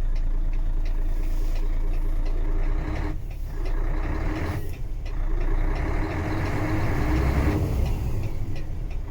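Mercedes-Benz Actros 2544 truck's diesel engine running steadily with a deep hum; its note changes from about three seconds in until about seven and a half seconds in, then settles back.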